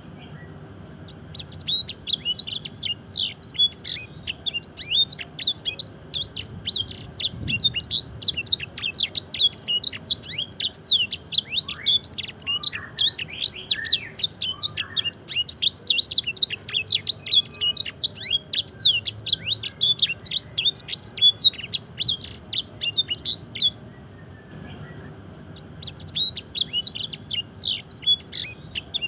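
Canary with blackthroat and edel sanger song phrases singing a long, fast song of rapid high chirps and trills. The song breaks off about 24 seconds in and starts again a second or two later.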